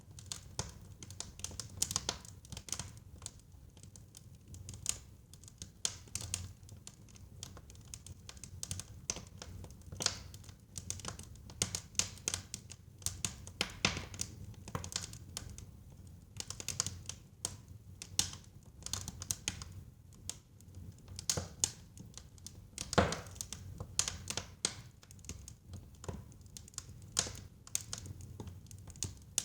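Wood fire burning in a fireplace: irregular crackles and pops over a low rumble of the flames, with one louder pop about two-thirds of the way through.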